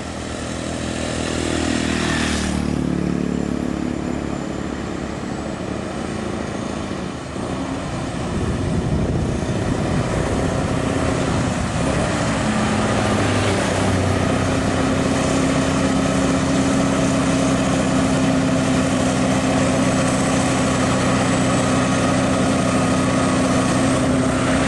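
Heavy truck diesel engines running: one passes close with its pitch falling about two seconds in, then a steady engine drone holds loud to the end.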